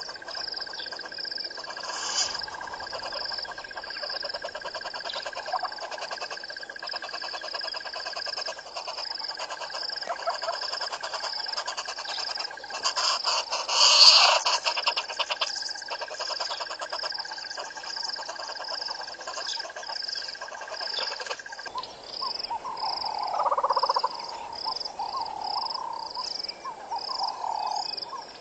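A dawn bush chorus of insects and frogs: a steady high trill that stops about two-thirds of the way through, over a fast, repeating, higher-pitched pulsing. It swells briefly halfway through, and mid-pitched bird calls come in near the end.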